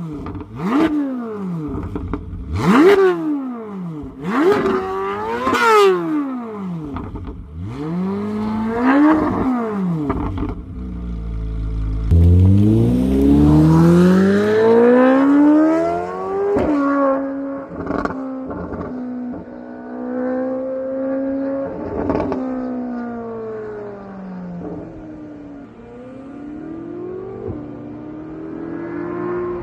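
C8 Corvette Z06's flat-plane-crank V8 exhaust: a string of quick, sharp free revs, then a long pull climbing through the revs, followed by sudden drops at gear changes and steadier running toward the end.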